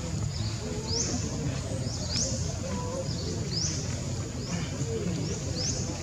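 A bird chirping again and again: short, high notes that each sweep upward, about one or two a second, over a steady low background rumble.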